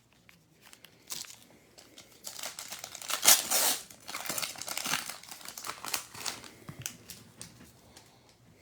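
Foil wrapper of a football card pack torn open and crinkled, loudest about three seconds in, then dying down toward the end.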